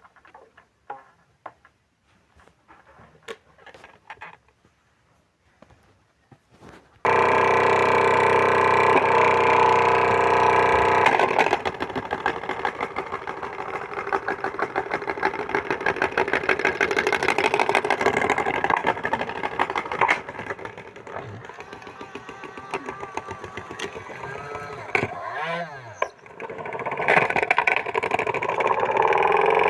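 Washing machine running with its drum shaking hard. After a few seconds of faint clicks it starts abruptly with a loud motor hum, which soon turns into a fast, even rattle. The sound dips briefly near the end, falling and rising in pitch, then comes back up.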